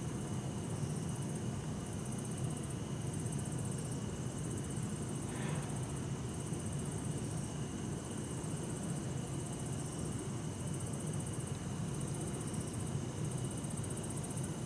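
Bell crickets (suzumushi) and other insects trilling in high chirps that stop and start every second or so, over a steady low rumble of distant city traffic.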